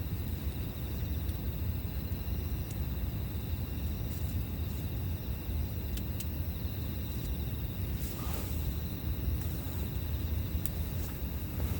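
Campfire crackling with a few sharp snaps scattered through, over a steady low rumble. Insects trill steadily in the background.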